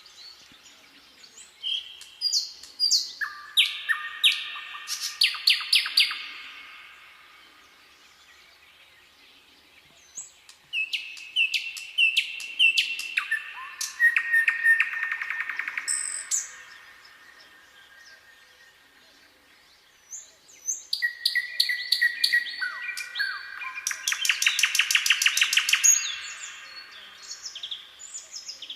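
A songbird singing three song phrases, roughly ten seconds apart. Each phrase is a run of clear notes stepping down in pitch and ends in a fast trill.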